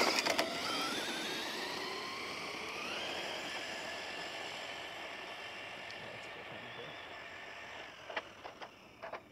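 Traxxas VXL RC car's brushless electric motor whining at full throttle, rising in pitch as it accelerates and then holding a steady high whine that slowly fades as the car runs away. A few light knocks near the end.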